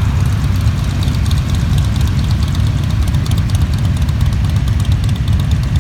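Motorcycle engines running steadily as a continuous stream of bikes rides past at low speed, a dense unbroken rumble.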